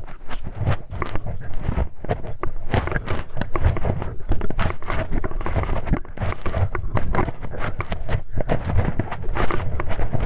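Close-miked ASMR ear-cleaning sounds on a binaural microphone's ear: continuous irregular scratching and rubbing with dense crackly clicks.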